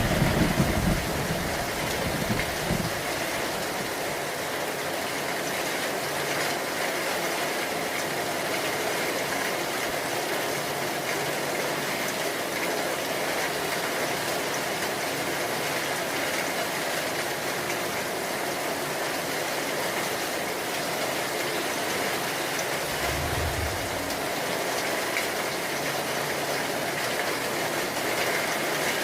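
Steady heavy rain hissing without a break. A low thunder rumble dies away over the first couple of seconds, and a short low rumble comes about 23 seconds in.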